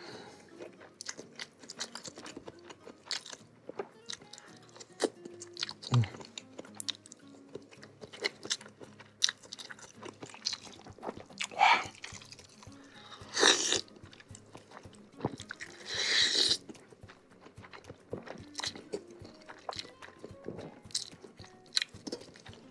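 Close-miked eating of seblak: chewing and biting with many short wet mouth clicks and crunches, and a few louder noisy bursts in the middle, over quiet background music.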